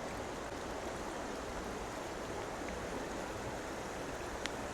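Small stream running, a steady rush of water over stones.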